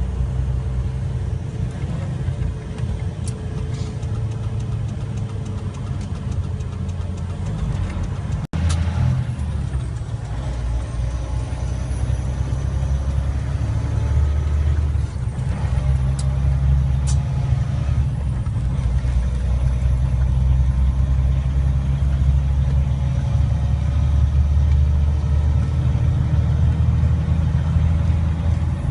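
Truck engine running with a steady low hum. It cuts out for an instant about a third of the way in, then gets a little louder about halfway.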